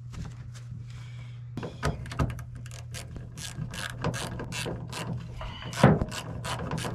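Hand ratchet wrench clicking in quick runs as screws are driven back in, with one louder metallic knock near the end.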